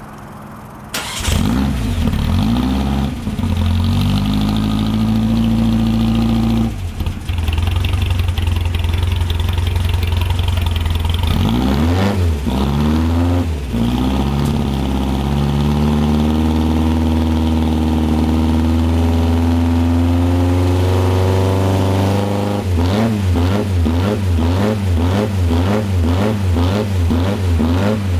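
Datsun CSP311 Silvia's four-cylinder engine through a side-exit muffler, starting about a second in and idling, with a few throttle blips around the middle and a quick run of repeated revs, about two a second, near the end.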